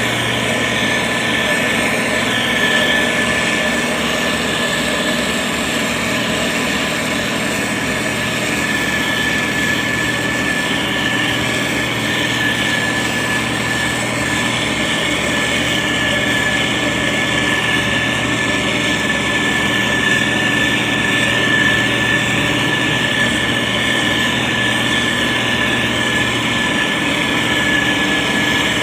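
SANY STG190C-8S motor grader's diesel engine running steadily while spreading gravel, with a steady high-pitched whine over the engine noise.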